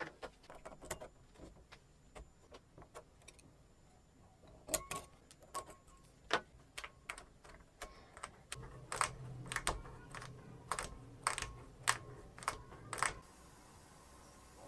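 Metal engine parts and hand tools clinking and clicking as they are handled, in irregular sharp clicks that come thicker in the second half, with a low hum under them for a few seconds near the end.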